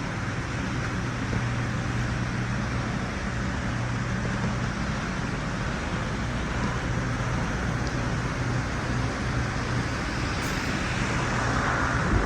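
A 2007 Chevrolet Tahoe's 5.3L V8 engine idling steadily.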